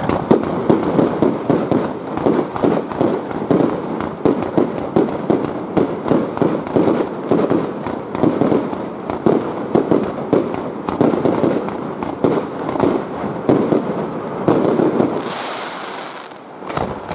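Fireworks display: a rapid, unbroken barrage of shell bursts, several bangs a second. Near the end the bangs stop for a second or two of high hissing, and then a single bang follows.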